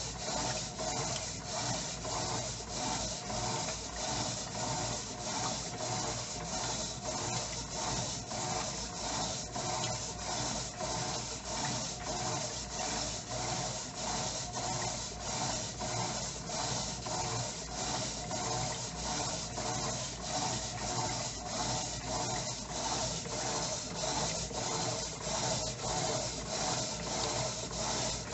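Electrolux Turbo Economia LTE09 top-loading washing machine agitating a load of clothes in water: steady, rhythmic churning and rubbing, its strokes repeating evenly.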